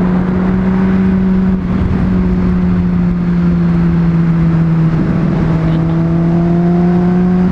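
Honda CBR600RR inline-four motorcycle engine running under way at a steady cruise, with wind rush over it. The engine note breaks briefly about one and a half seconds in and again about five seconds in, then climbs slowly in pitch.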